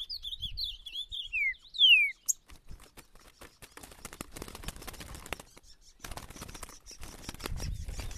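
Green-winged saltator (trinca-ferro) singing a short phrase of whistled notes that ends in two falling slurs about two seconds in. Rustling and crackling noise with scattered clicks follows, with a low rumble near the end.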